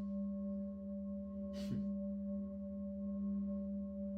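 Steady, unbroken drone of a singing bowl, one low ringing tone with higher ringing overtones held without fading. A brief noise cuts in about halfway.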